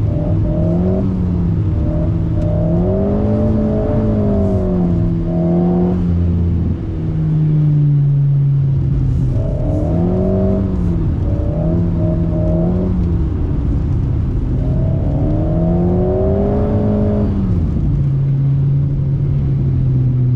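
Alpine A110's turbocharged four-cylinder with a BDA Racing Track Evo stainless exhaust, heard from inside the cabin, being worked on and off the throttle. Its note rises and falls in several waves, then settles to a steadier, lower note near the end.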